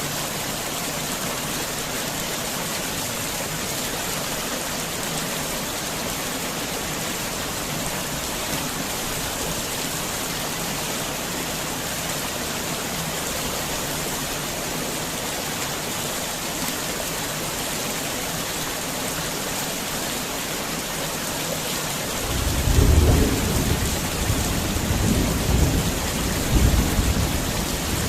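Heavy rain falling steadily, a dense even hiss. About two-thirds of the way through, a low rumble of thunder rolls in, swelling several times before dying away near the end.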